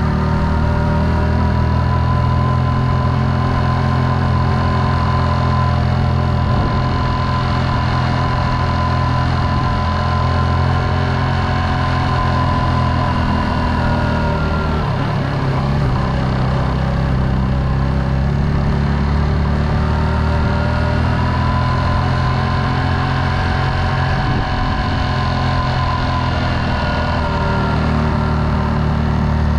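Motorcycle engine running at a steady cruise, its pitch sagging about halfway through as it eases off and then climbing back up.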